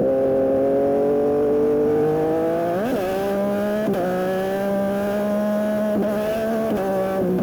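Yamaha MT-09 SP's 890 cc inline three-cylinder engine through a Dominator aftermarket exhaust, pulling hard under acceleration. The revs climb steadily, with quick gear changes about three and four seconds in, again at about six seconds, and near the end.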